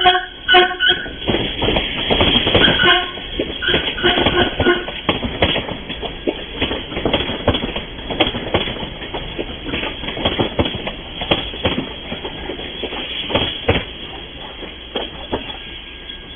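Passing train: its horn sounds in several short blasts during the first few seconds, then the wheels clatter over the rail joints in quick irregular knocks that fade toward the end.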